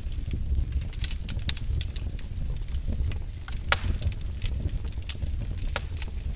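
Fireplace fire crackling, with many irregular sharp pops over a steady low rumble of flame; one louder pop comes a little past halfway.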